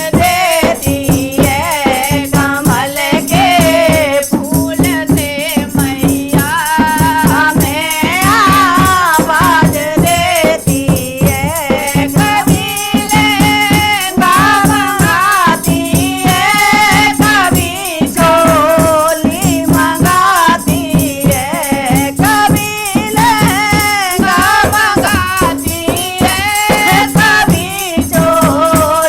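Hindi devotional bhajan music: a wavering sung melody over fast, steady percussion.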